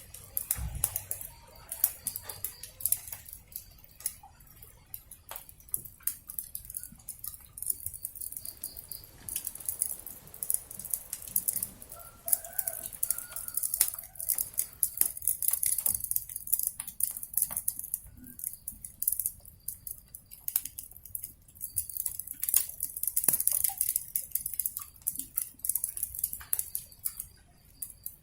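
Wood fire crackling, with many sharp snaps and pops. Chickens cluck a few short calls about twelve seconds in.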